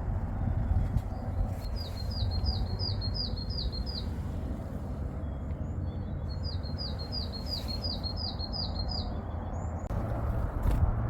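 Varied tit singing two runs of about seven quick, repeated high notes, over a steady low rumble.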